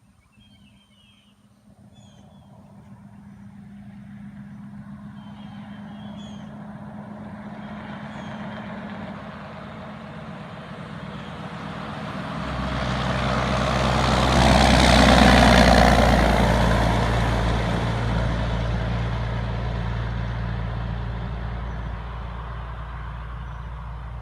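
Loaded 2015 Freightliner Columbia 120 logging truck approaching, growing steadily louder, passing close about fifteen seconds in with a rush of tyre and engine noise, then pulling away with a steady low engine drone. Birds chirp faintly during the first several seconds.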